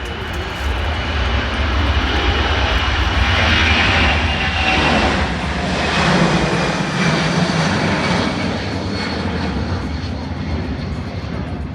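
Boeing C-17A Globemaster III's four turbofan engines at takeoff thrust as the airlifter accelerates down the runway and climbs out. The jet noise swells to its loudest around the middle and then eases a little.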